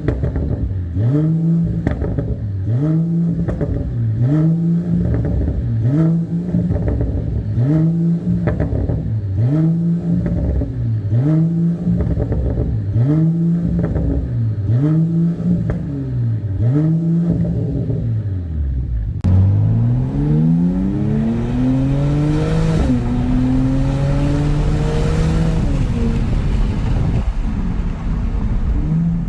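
Mercedes-AMG CLS 53's turbocharged 3.0-litre inline-six running through an aftermarket Euro Arts full exhaust with expanded pipe and muffler, the downpipe left stock. The tone is soft and not too aggressive. It is blipped repeatedly, each rev rising and falling about once every 1.3 seconds; about two-thirds of the way in it switches abruptly to the engine pulling up in pitch twice, as under acceleration, with more hiss around it.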